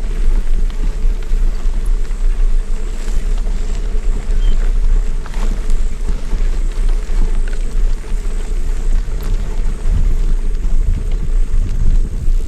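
Steady low rumble of wind buffeting the microphone and the tyres of a Giant mountain bike rolling along a dirt trail while riding.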